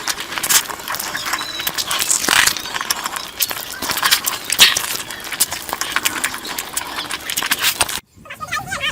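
Close-miked mukbang eating sounds: wet chewing and lip-smacking on curry and meat, a dense run of short clicks and smacks. The sound cuts out briefly about eight seconds in, then resumes.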